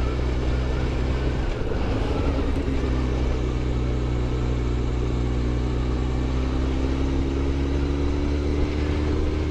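Honda CBR1100XX Blackbird's inline-four engine running steadily at low road speed, with road and wind noise. Its note breaks briefly about a second and a half in, then rises slowly in pitch over the rest of the stretch.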